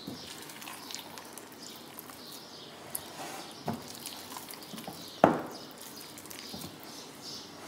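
Wet no-knead bread dough being stretched and folded by hand in a glass bowl: soft, irregular squelching and sticky smacking, with one sharper slap about five seconds in.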